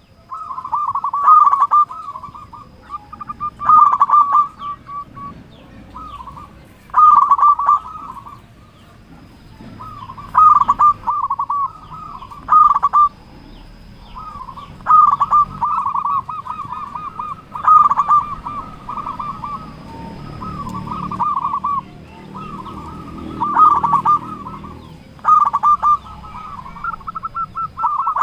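Male zebra dove (perkutut) cooing, its phrases of quick, rippling coo notes repeating every second or two.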